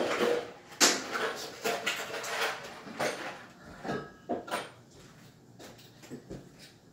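A series of knocks and clatters from cabinet installation work, about one every second at first, growing fainter after about four seconds.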